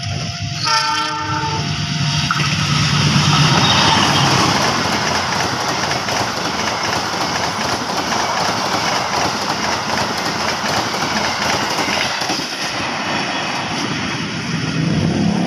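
CC 206 diesel-electric locomotive sounding a short blast on its multi-note horn as it approaches, then the Argo Cheribon express train passing at speed, a loud steady rush of locomotive and carriage wheels running over the rails.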